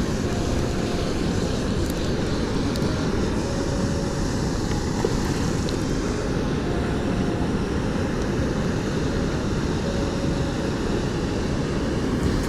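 Steady rushing noise of a small stream's flowing water, heaviest in the low end, with wind rumbling on the microphone.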